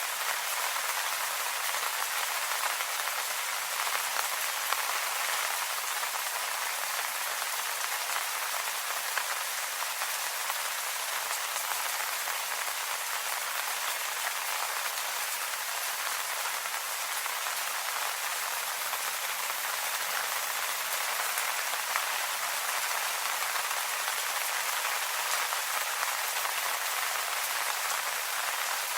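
Steady rain falling on leaves, an even hiss of many small drop patters.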